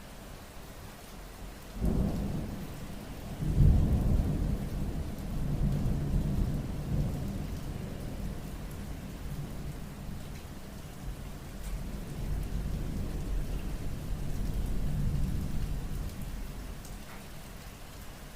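Thunder in a rainstorm: a sudden clap about two seconds in, a louder one a moment later, then a long low rumble that swells twice more and fades away near the end, over steady rain.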